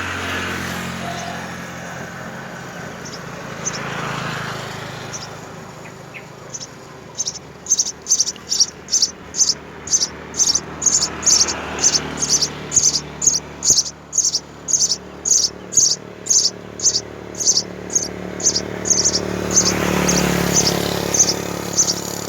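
House sparrow chirping over and over, short high chirps at about two or three a second, starting about seven seconds in. Under it a rushing background noise swells and fades several times.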